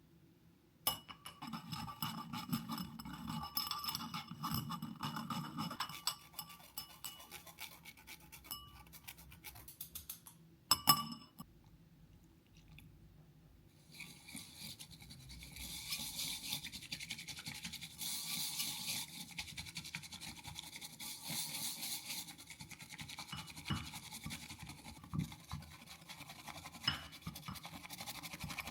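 Kitchen utensils at work: rapid scraping or whisking for several seconds, a sharp clink about eleven seconds in, then a steadier hissing scrape.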